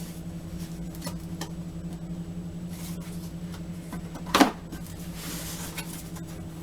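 Scattered small clicks and handling noises over a steady low hum, with one sharp knock about four and a half seconds in and a short rustle after it.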